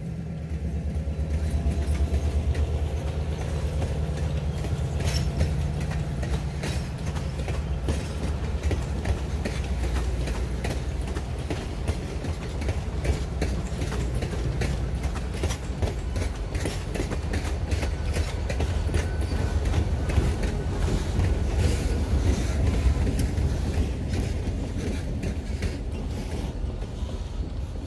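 Passenger train cars rolling past at close range: a steady low rumble of wheels on rail, with rapid clicks as the wheels cross rail joints. It eases off near the end as the last car goes by.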